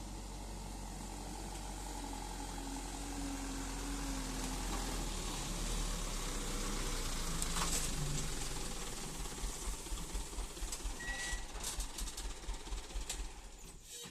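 Truck engine running, growing louder over the first eight seconds or so, then easing off into a low, uneven chugging.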